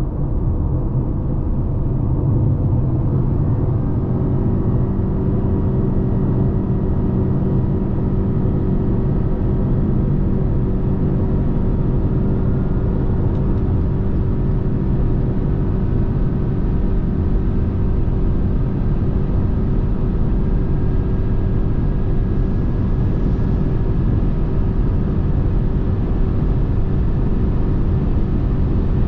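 Cabin noise of a Lexus NX 300h hybrid cruising at autobahn speed: a steady road and tyre rumble with a steady engine hum that settles in after the first few seconds.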